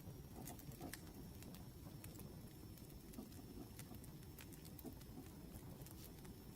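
Faint crackling of a wood fire: scattered sharp pops and ticks at irregular intervals over a low rumble, with a faint steady high whine underneath.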